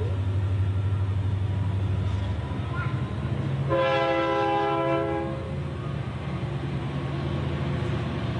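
A steady low machine hum, with a horn-like tone sounding once for about a second and a half near the middle.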